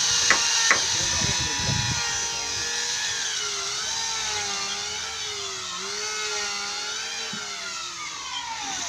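Power drill whining as the bit works into wood, its pitch wavering up and down as the load on the motor changes. A few sharp knocks come in the first second, and near the end the pitch dips sharply and then climbs again.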